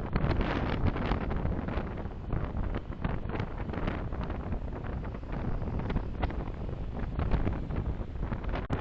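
Wind and road noise of a car driving, a low rumble with uneven buffeting on the dashcam's microphone.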